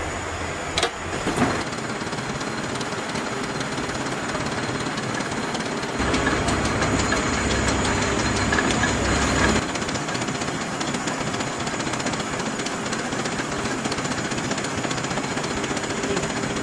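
Metalworking shop machinery running with a steady mechanical din, with two sharp metal knocks about a second in and a louder low rumble from about six to nine and a half seconds.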